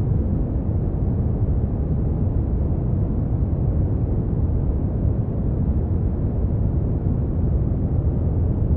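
Steady brown noise: an even, unchanging rushing hiss weighted heavily toward the low end, with nothing above the upper midrange.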